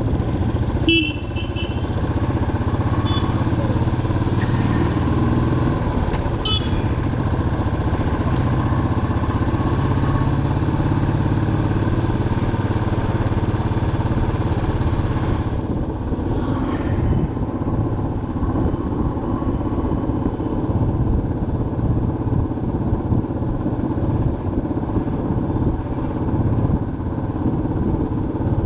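Motorcycle engine running steadily as the bike is ridden, with wind and road noise, and a few short sharp sounds about a second in and again a few seconds later.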